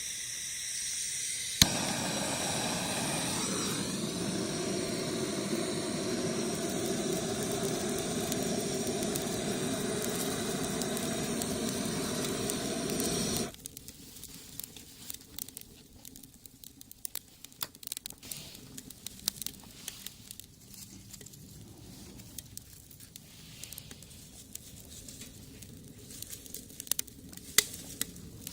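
Wood fire burning in a homemade brick rocket stove: a loud, steady rushing hiss for about the first dozen seconds that cuts off abruptly, then quieter crackling with scattered sharp pops.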